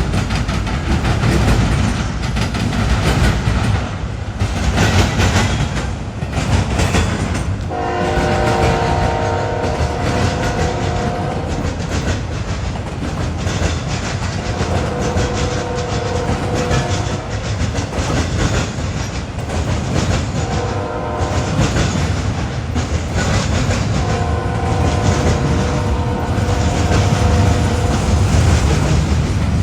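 Freight train passing with steady rumble and wheels clattering over the rail joints, while the locomotive's multi-chime air horn sounds a long, long, short, long sequence, the standard grade-crossing signal, starting about eight seconds in and beginning again near the end.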